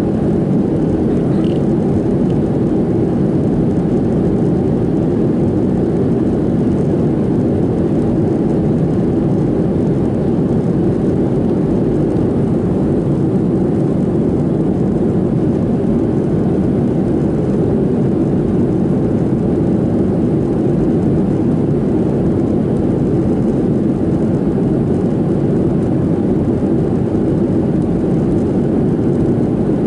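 Steady cabin noise inside a Boeing 737-700 descending: the even rush of airflow and the hum of its CFM56-7B turbofan engines, unchanging throughout.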